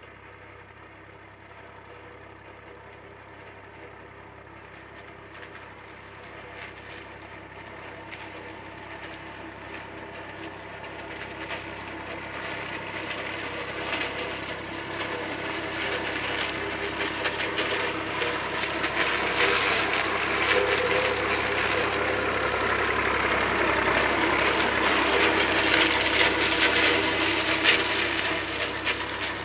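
IMT 539 tractor's diesel engine running under load as it drives a trailed SIP Roto 135 forage harvester chopping corn. The engine and the harvester's rattling chopping noise get steadily louder, and the rattle grows strongest in the second half.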